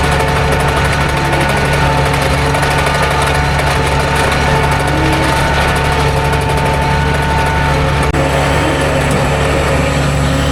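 Vehicle engine running steadily at an even speed, with a constant low hum.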